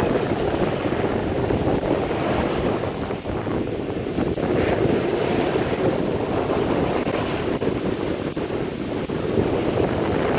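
Strong wind buffeting the microphone over the steady rush of surf breaking on the beach during hurricane winds.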